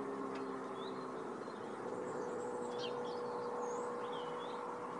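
Small birds chirping in short, repeated calls over a steady engine hum in the background. The hum fades about a second in and returns at a slightly higher pitch about two seconds in.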